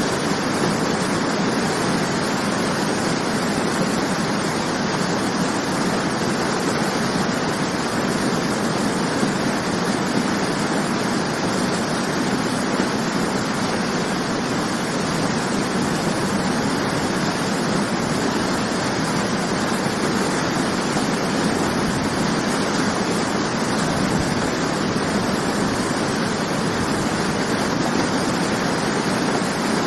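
Waterfall: falling water rushing steadily, a dense even roar of noise with no breaks.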